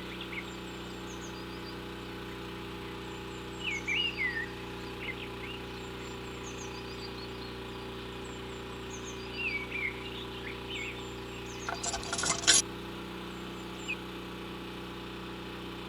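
Birds chirping a few times over a steady low hum, with a brief clinking rattle about three-quarters of the way through.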